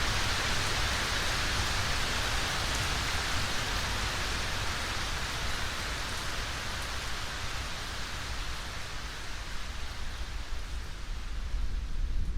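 Steady rain falling, an even hiss that thins out over the last few seconds as a low rumble builds.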